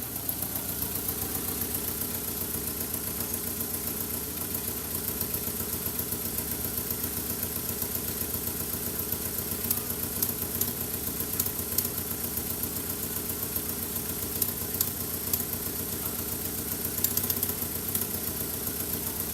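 VW Passat B5's 1.6-litre AHL four-cylinder petrol engine idling steadily, with scattered sharp ticks from about halfway through.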